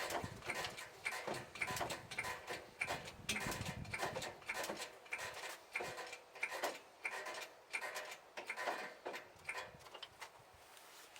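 A run of sharp light clicks or taps, about two a second, each with a brief ringing edge, thinning out and fading near the end.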